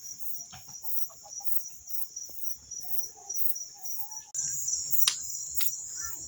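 Insects chirring steadily in a continuous high, pulsing drone that gets louder about four seconds in. A couple of sharp clicks come near the end.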